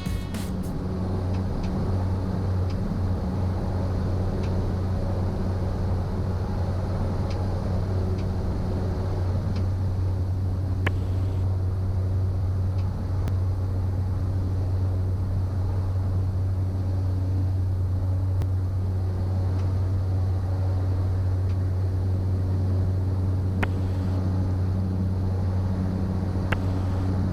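Steady drone of the Cessna 208 Caravan's turboprop engine and propeller in flight, with a few faint clicks.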